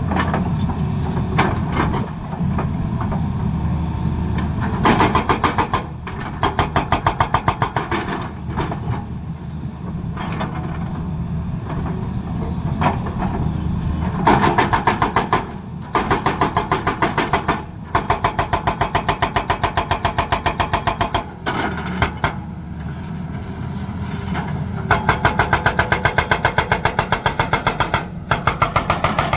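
Tata Hitachi excavator's diesel engine running steadily, with its hydraulic breaker hammering in bursts of rapid, evenly spaced blows, each lasting one to three seconds, several times over.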